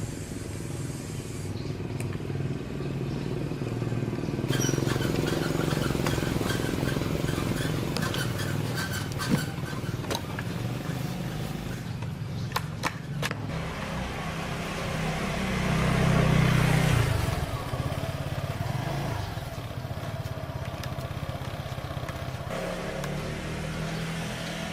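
An engine running steadily, swelling louder for a couple of seconds past the middle, with short metallic clicks and taps over it.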